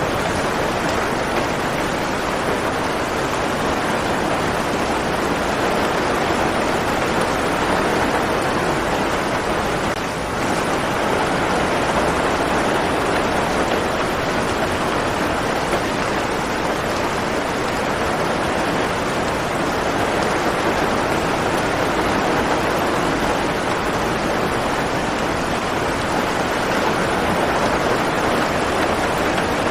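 Steady rain falling, an even, unbroken hiss of drops that dips slightly for a moment about ten seconds in.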